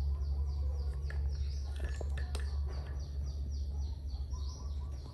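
A bird calling a rapid series of short, high, falling notes, about four a second, over a steady low hum.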